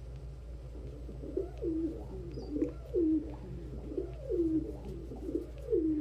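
Domestic pigeon cooing: a run of low, bending coos that starts about a second in and repeats about once a second, over a steady low hum.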